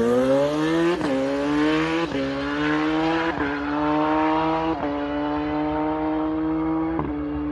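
Turbocharged Honda CBR1100XX Blackbird drag bike's inline-four engine accelerating hard down the strip through the gears. Its pitch climbs and drops sharply at five quick upshifts, about 1, 2, 3.5, 5 and 7 seconds in.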